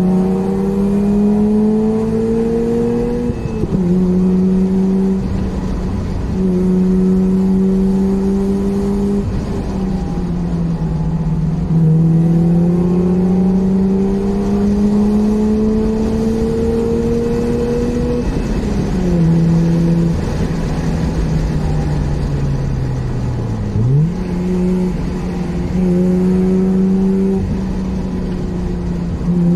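Mazda RX-8's rotary engine heard from inside the cabin, pulling up through the revs in gear. The pitch drops at each gear change, sinks during one long easing-off, and jumps in a quick blip of revs about four-fifths of the way through.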